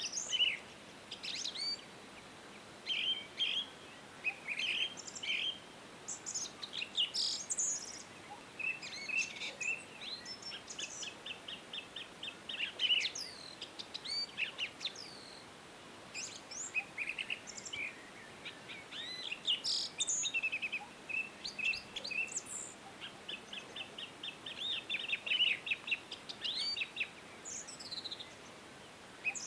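Wild birds singing and calling: many short chirps and whistles, with quick trills of rapidly repeated notes, over a faint steady hiss of background noise.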